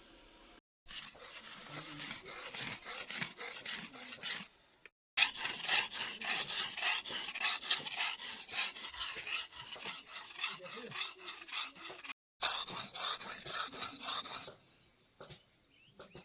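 Rapid back-and-forth scraping strokes of a newly forged machete being hand-finished, several strokes a second. Three abrupt silent gaps break them, and they stop about two seconds before the end.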